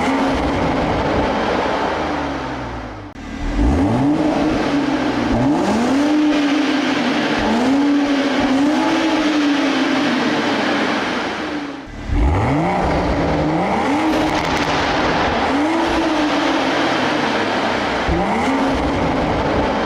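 Toyota GR Supra's 3.0-litre turbocharged inline-six on its stock exhaust, revved up again and again: about eight or nine rising rev blips, each climbing in pitch and then falling back, with two short dips where the revs drop away.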